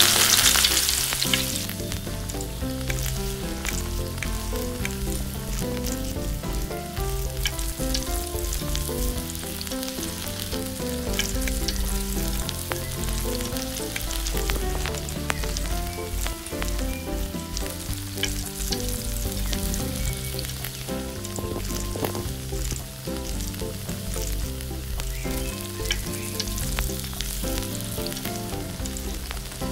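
Food sizzling in hot oil in a miniature frying pan, loudest at the very start and settling into a steady sizzle, with light clicks of a utensil stirring.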